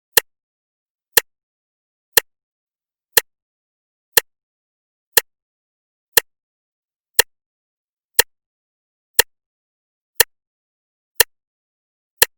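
Clock ticking steadily, once a second: each tick a short, sharp click with silence between.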